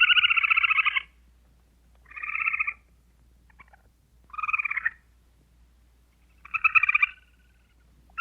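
An animal calling in rapid pulsed trills: a long trill that ends about a second in, then three shorter ones spaced about two seconds apart.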